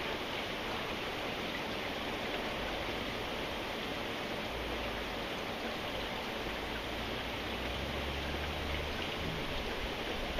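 Steady rain falling, an even, unbroken hiss. A low rumble sits underneath from about four and a half to nine seconds in.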